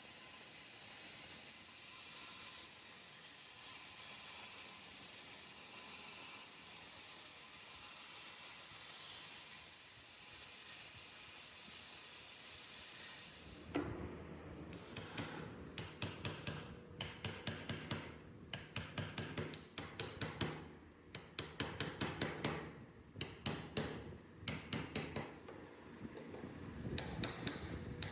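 A steady hiss, then about halfway through it gives way to a run of sharp knocks, several a second in irregular clusters: a mallet striking a carving chisel into wood.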